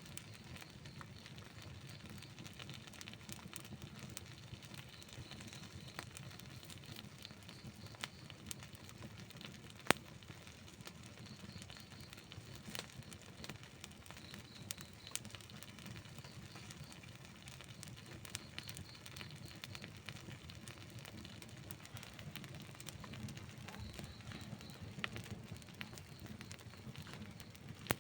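Wood campfire burning: a steady low rush of flame with frequent small crackles and occasional sharper pops of burning wood, the loudest pop about ten seconds in.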